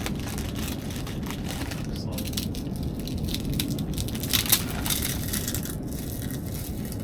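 Potato chips being crushed by hand, an irregular crunching and crackling that is densest about four seconds in, over a steady low rumble.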